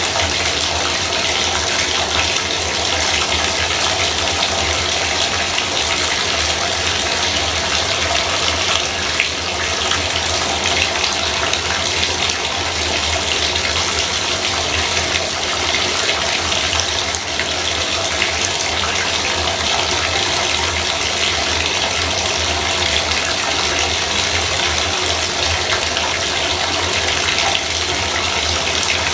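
Bathtub faucet running, a steady gush of water pouring without break.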